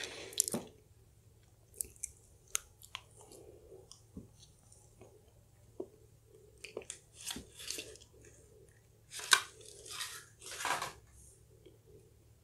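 Close-miked chewing and mouth sounds of someone eating soft, gooey chocolate lava cake: scattered wet smacks and small clicks, growing louder and busier in the second half.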